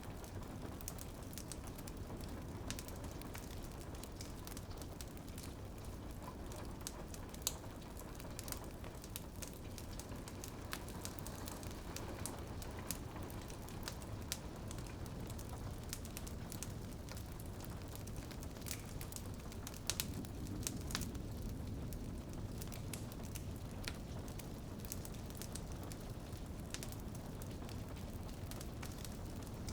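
Wood fire crackling, with frequent sharp pops scattered over a steady low rumble, mixed with rain pattering on a window.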